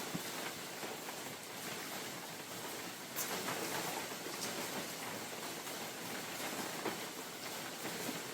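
Steady rain falling in a forest with wind in the trees, scattered drops ticking on leaves; the rain grows a little louder about three seconds in.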